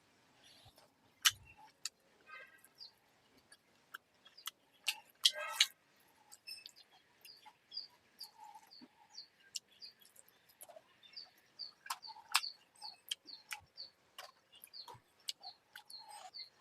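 Eating sounds: chewing with sharp lip smacks and clicks at irregular intervals. Behind them, a small bird chirps over and over, about two short high chirps a second, from about six seconds in.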